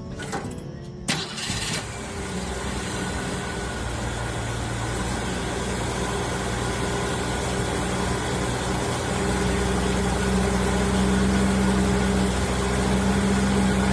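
A 1966 Ford Mustang's engine starts about a second in and then idles steadily, its hum growing gradually louder.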